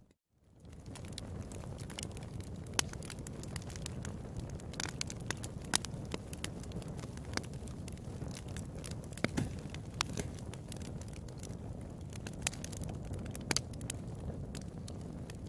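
Wood fire in a fireplace crackling: scattered sharp pops and snaps over a steady low rumble of flames, after a brief dropout right at the start.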